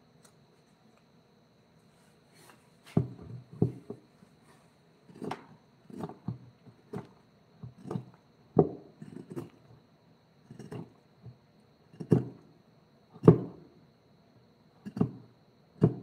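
A series of irregular dull knocks on wood, roughly one a second, some coming in quick pairs, starting about three seconds in.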